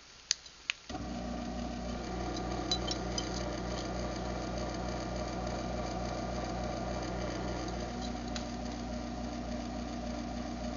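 Craftsman 1/2 hp garage door opener being run through its opening cycle: two short clicks, then its motor starts about a second in and runs with a steady hum.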